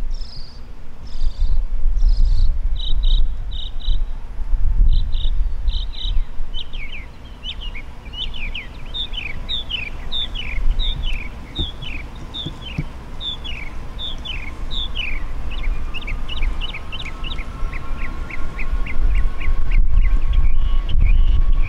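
A songbird singing a long run of repeated phrases: high chirps, then about a dozen downward-sliding whistles, then a quick series of short notes. Under it runs a low, uneven rumble, and in the second half a faint whine rises slowly in pitch, the sound of a jet engine spooling up.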